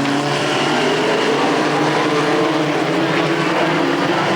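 Race truck engines running at racing speed around a short oval track. Several engine notes overlap, shifting slightly up and down in pitch, at a loud, steady level.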